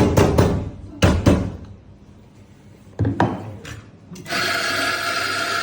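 A few knocks and clatters, then an electric espresso grinder's motor starts about four seconds in and runs with a steady whirr for about two seconds.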